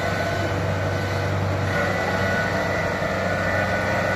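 Kubota DC70 Plus rice combine harvester's diesel engine running steadily under load, its note shifting slightly about two seconds in.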